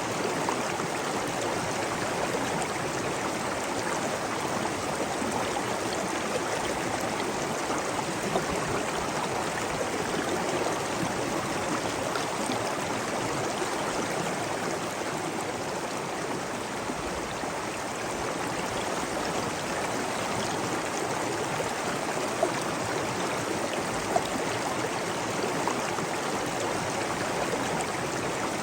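Steady rush of flowing water, a stream or waterfall, with a few brief ticks of drips or splashes.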